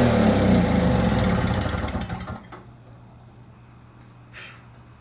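Toro CCR 2450 snowblower's small two-stroke engine running fast and high just after firing on a flooded carburetor, then falling in pitch and cutting out about two seconds in as it is shut off. A low steady hum and a short hiss follow.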